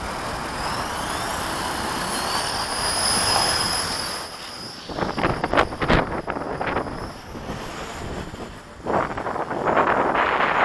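450-size RC helicopter running with a high-pitched whine that wavers slightly in pitch. Wind buffets the microphone in gusts, drowning the whine from about five seconds in and again near the end.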